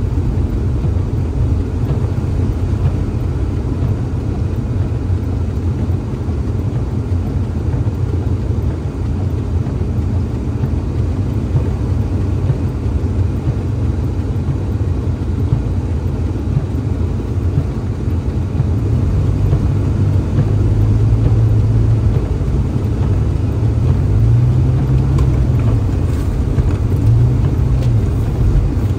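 Car driving, its engine and road noise a steady low rumble. About two-thirds of the way in, the engine's pitch starts rising and falling a few times as the car speeds up and slows.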